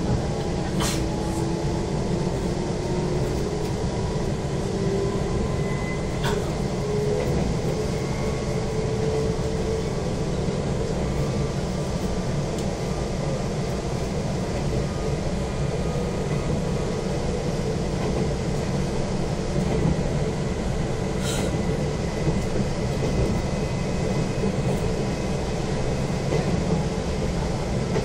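Izukyu 2100-series electric train running, heard from inside the carriage: a steady low rumble of wheels on the rails, with a motor whine rising in pitch over the first few seconds, and a few sharp clicks.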